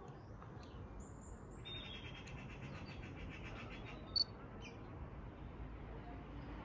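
Small songbirds chirping, with a rapid trill about two seconds in and a short, sharp high note, the loudest sound, about four seconds in, over steady low background noise.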